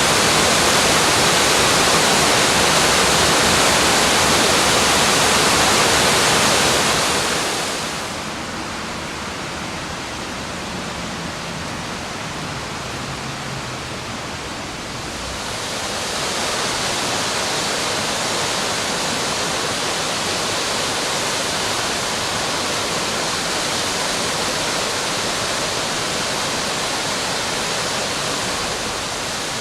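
Waterfall rushing in a steady roar of white water. About seven seconds in it turns quieter and duller for several seconds, then brightens and grows louder again.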